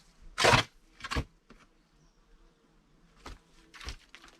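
Short scraping knocks of ground-clearing work, the loudest about half a second in and another just after a second, with fainter ones later. A faint insect buzz lies under them.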